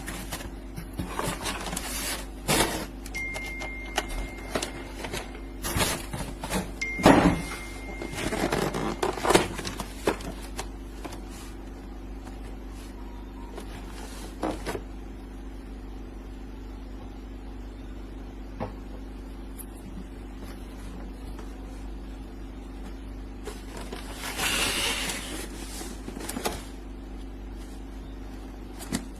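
Small electric motor of a toy remote-control monster truck whirring in short spurts, with plastic clicks and knocks in between and two brief high beeps.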